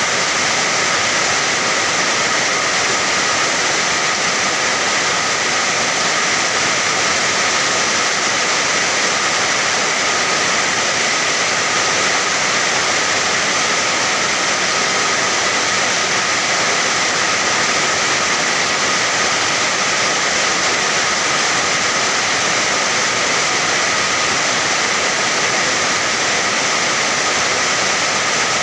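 Steady heavy rain falling: a dense, even hiss that holds at the same level without breaks or gusts.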